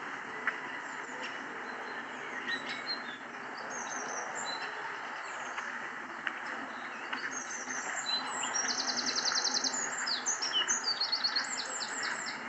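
Several songbirds chirping and singing over a steady background hiss. About two-thirds of the way in comes a fast trill of rapid repeated notes lasting over a second, followed by more short chirps.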